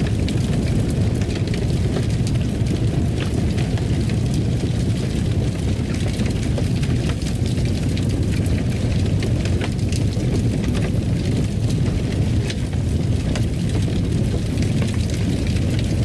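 Fireplace sounds: a wood fire burning with a steady low rumble and frequent small crackles and pops.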